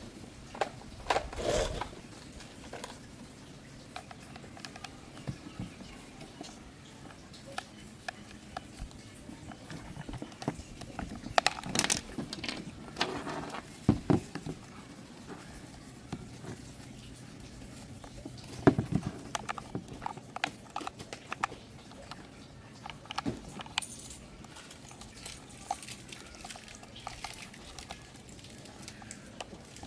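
Irregular clicks, knocks and rattles of objects being handled close to the microphone, over a faint steady hum, with louder clusters about a second in, around twelve to fourteen seconds in, and once sharply near nineteen seconds.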